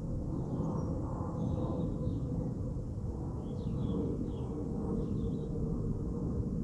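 Small birds chirping in short, pitch-gliding calls over a steady low rumble.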